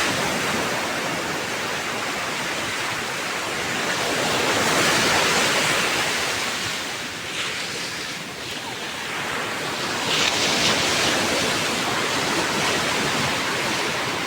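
Rough sea surf breaking on the shore: a continuous rush of waves that swells twice.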